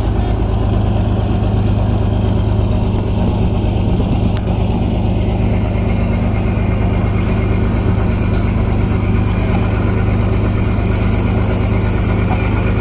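An engine running steadily at an even speed, a loud low hum that doesn't change in pitch.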